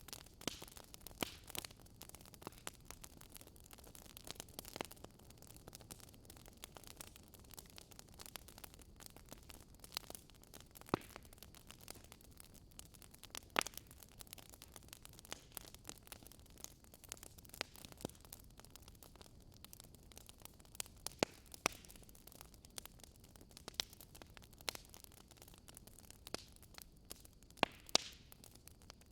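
Wood fire crackling in a fireplace: irregular sharp pops and snaps, a few of them louder, over a faint steady hiss.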